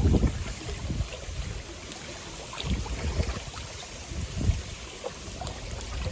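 Strong typhoon wind gusting on the microphone in uneven low rumbles, loudest at the start, over lake water lapping and splashing at the shore.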